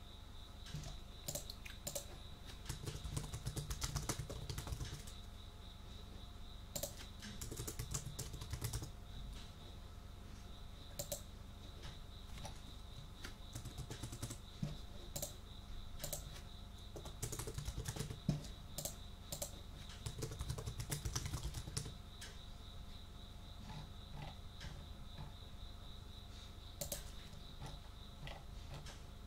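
Computer keyboard typing, with runs of fast keystrokes broken by pauses of scattered single key clicks. A steady high cricket trill runs underneath.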